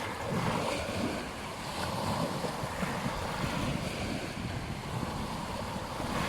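Ocean waves washing onto a beach in a steady, continuous surf, with wind buffeting the microphone.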